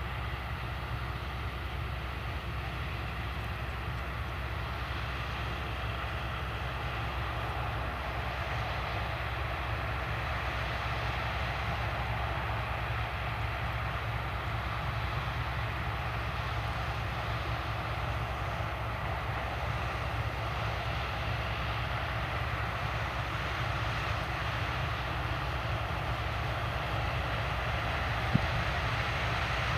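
Diesel engines of heavy farm machinery at corn harvest running steadily: a continuous low drone with a rushing hiss, slowly growing louder, with one sharp click near the end.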